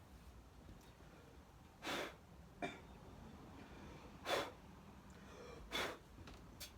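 Three short, quiet puffs of a person's breath, a second and a half to two seconds apart, with a faint click after the first.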